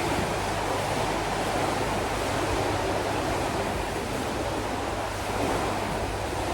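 Steady rushing noise without any distinct events, its level barely changing throughout.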